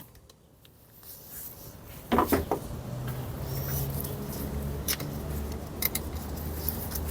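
A few sharp clicks and knocks of parts or tools being handled, a cluster about two seconds in and single ones later, over a low steady hum that starts about three seconds in.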